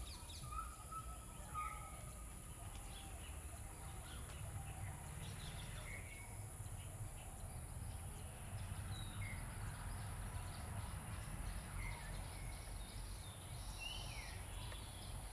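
Faint scattered bird chirps and short calls over a steady low background rumble, with a thin steady high whine.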